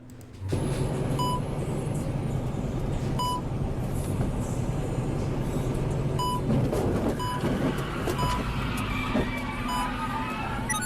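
Dashcam audio of a vehicle on the road: steady engine and road rumble, with a handful of short, high electronic beeps from the dashboard, spaced a second or more apart.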